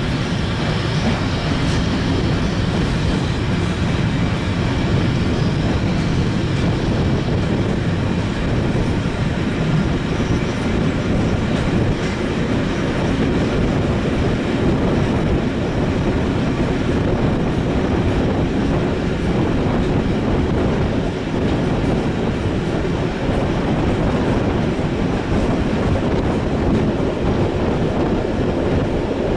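A moving train running steadily along the track, its wheels and running gear giving a continuous rumble.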